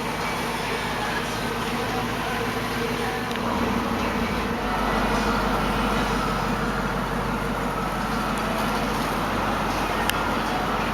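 1999 Ford Mustang Roush Stage 2's 4.6-litre V8 running at a steady idle through its side exhaust, the low rumble growing stronger about four and a half seconds in.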